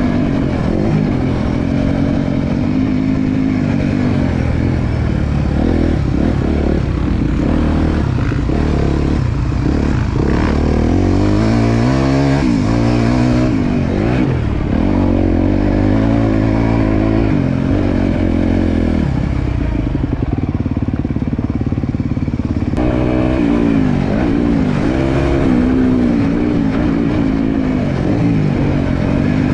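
Four-stroke single-cylinder motocross bike being ridden hard, its engine repeatedly revving up and rolling off through corners. About two-thirds of the way through the revs drop to a lower, duller run before climbing again.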